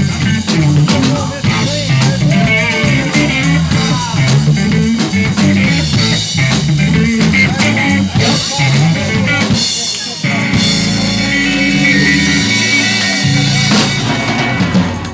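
Live blues band playing an instrumental passage on electric guitar and drum kit, with a brief break about ten seconds in followed by longer held chords as the song winds to its end.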